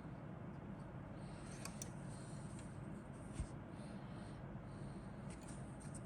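Faint rustling and light handling of a plastic model kit's contents, with bags, paper and sprues shuffled about, and one soft low knock about three and a half seconds in.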